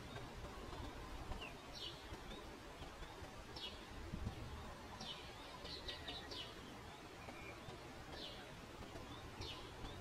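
Small birds chirping: about a dozen short, high, falling chirps, spread out, with a quick run of them around the middle. A steady low rumble of outdoor noise sits underneath.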